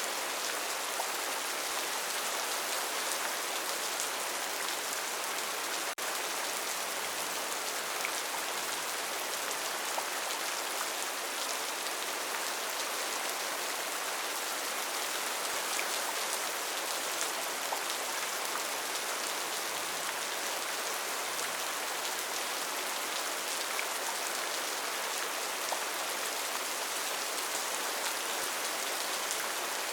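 Steady rainforest rain: an even hiss of falling rain with faint individual drop ticks, broken only by a momentary dip about six seconds in.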